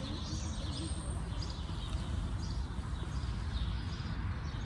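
Faint, scattered chirps of small birds over a low steady rumble of outdoor background noise.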